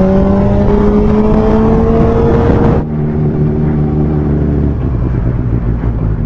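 Motorcycle engine accelerating, its pitch rising steadily for about three seconds, then dropping back suddenly and running steadier and lower, with wind noise from riding.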